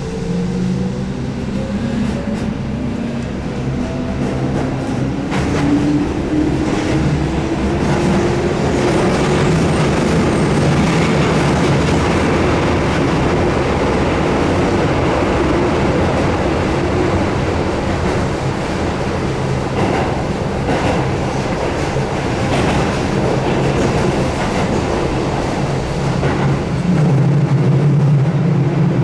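Keihan 8000 series electric train running, its field-added-excitation-controlled DC traction motors whining up in pitch as it accelerates over the first ten seconds or so, then steady running noise with clicks from the wheels over rail joints. A louder low hum comes in near the end.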